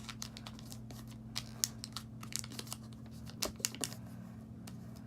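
A sheet of paper being handled, folded and creased by hand for a paper airplane: irregular small crinkles and clicks, over a steady low hum.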